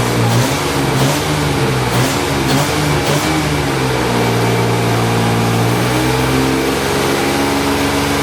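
Freshly rebuilt Jaguar E-Type 5.3-litre V12 running on its first start. The engine speed rises and falls a little over the first few seconds, then settles to a steady idle.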